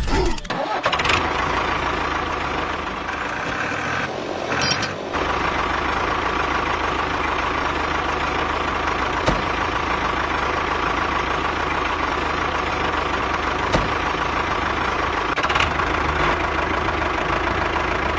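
Steady engine sound, a vehicle engine running evenly, briefly dropping about four seconds in and then carrying on.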